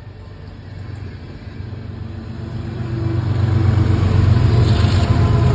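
CSX freight train rolling past: a steady low rumble that grows louder through the first few seconds and then holds.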